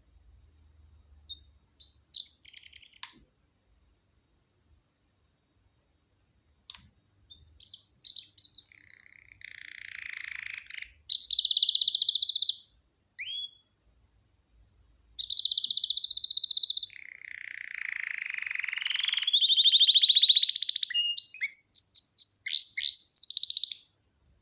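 Canary singing: a few scattered chirps, a pause, then long song phrases of fast trills and rolls, some low and buzzy, some high and clear, with one trill rising in pitch, ending in quick varied notes.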